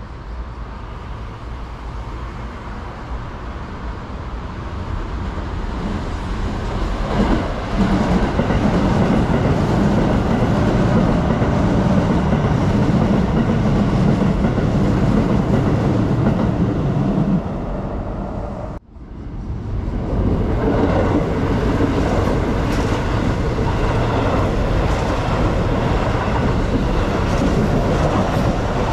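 Electric commuter trains on the Keikyu line running along the tracks, with wheel-on-rail noise. The noise builds about seven seconds in and holds steady, breaks off abruptly about nineteen seconds in, then builds back up again.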